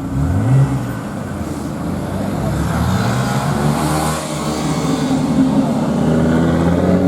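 Car engines passing on the road: one revs sharply about half a second in, then engines run and accelerate, their pitch climbing toward the end.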